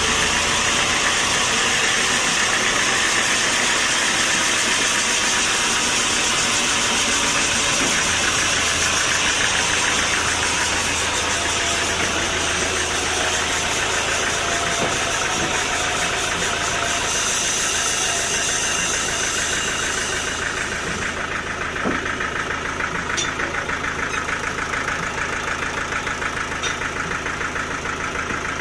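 Sawmill machinery running steadily, a motor hum under the dense hiss of the saw; the higher hiss eases off about twenty seconds in.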